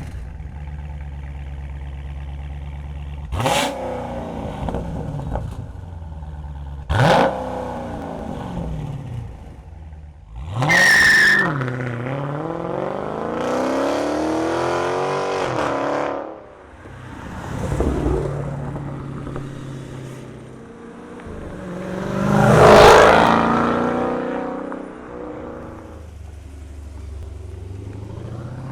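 2018 Dodge Challenger 392 Scat Pack's 6.4-litre Hemi V8 through a resonator-delete straight-pipe exhaust. It idles and is blipped three times, each rev rising sharply and falling back. Then it is held higher for a few seconds and let fall, and a louder, longer surge comes about two-thirds of the way in before it settles back to idle.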